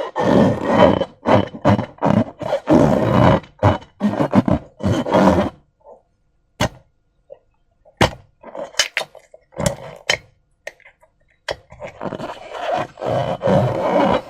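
Slime and a transparent balloon being squished and worked by hand: dense, wet squelching and rubbery noise, with a quieter stretch in the middle broken by a few sharp clicks.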